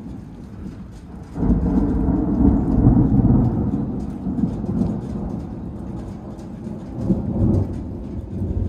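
Close thunder: a sudden loud clap about a second and a half in, then a long low rumble that slowly fades, with another swell of rumbling near the end. Rain falls throughout.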